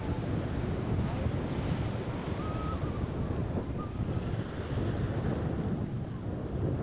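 Strong wind buffeting the microphone over the sound of sea waves, a steady gusty rumble. Two brief faint high chirps sound near the middle.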